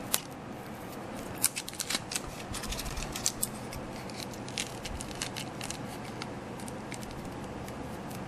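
Scissors snipping through model-making material: a run of short sharp clicks, thickest between about one and a half and three and a half seconds in, then sparser.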